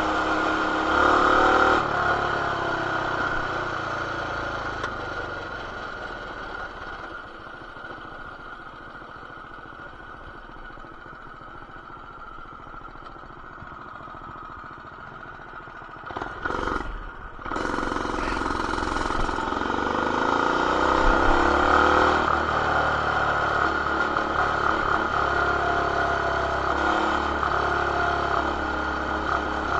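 BT200X mini bike's single-cylinder four-stroke engine with an aftermarket header and RLV muffler, running hard, then backing off throttle about two seconds in and running low and quieter for a long stretch. A brief loud rattle comes past the middle. The engine then revs back up and pulls strongly to the end.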